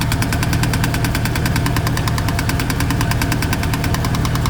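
1999 Chevrolet Silverado engine running with a fast, steady metallic knocking, about a dozen ticks a second, over its low hum. The owner traces the knock to a loose dust cover chattering, not to an engine problem.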